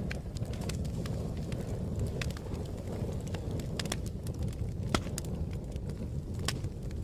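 Wood fire crackling: a steady low rush of flame with sharp, irregular pops and snaps about once a second.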